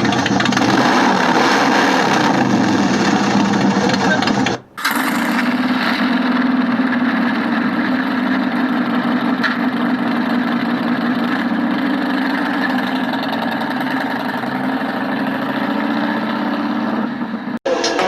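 Motorcycle engine running steadily, broken by two abrupt dropouts, a little under five seconds in and near the end.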